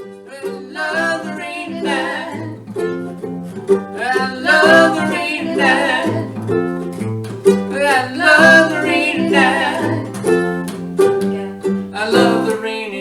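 Ukulele strummed in a steady rhythm, with a voice singing along over it.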